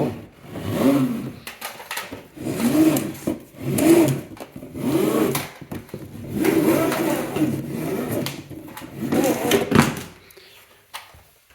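Retractable central-vacuum hose being drawn out of its wall tube in a series of pulls, each one a rubbing, whining tone that rises and falls in pitch, about six or seven pulls in all before it stops near the end.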